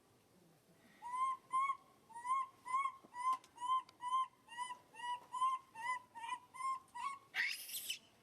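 An animal calling over and over: about fifteen short, alike calls, a little over two a second, then a brief harsh, noisy sound near the end.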